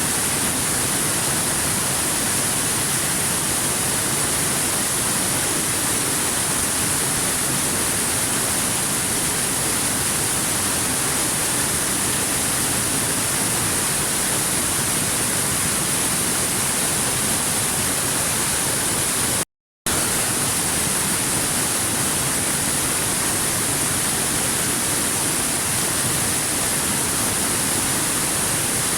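Steady, even rush of a waterfall, constant in level throughout, with a strong hiss in the top range. It cuts out completely for a fraction of a second about two-thirds of the way through, then resumes unchanged.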